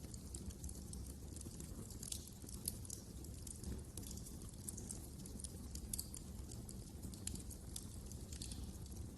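Wood fire crackling: frequent small irregular pops and snaps over a steady low rumble of the burning logs.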